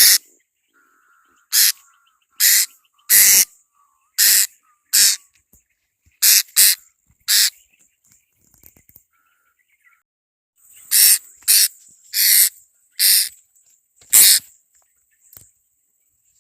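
Blue-crowned hanging parrot (serindit) giving short, loud, shrill calls over and over, about fourteen in all, with a pause of about three seconds in the middle.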